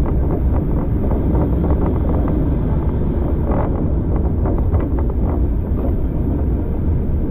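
Wind buffeting the microphone over the steady low rumble of a moving railway carriage, with scattered small clicks and rattles.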